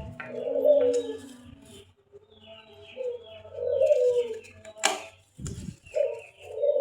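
A bird cooing in repeated low, falling phrases, with a sharp click about five seconds in, followed by a short low thump.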